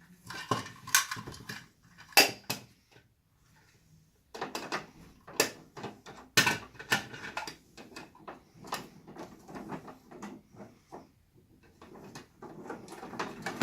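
Hard plastic parts of a Bruder toy garbage truck clicking, knocking and rattling as its bin lifter is worked by hand to tip rubbish into the body. There is a short quiet pause about three seconds in.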